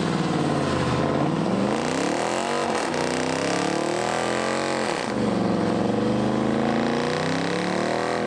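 A loud car engine revving, its pitch climbing and falling several times with sharp drops between revs.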